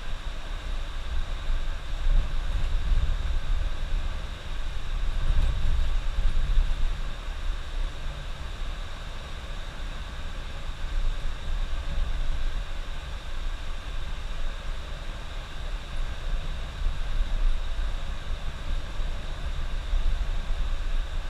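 Steady low rumble of a bus driving on the highway, heard from inside the cab: engine and tyre noise with a constant hiss, rising and falling slightly.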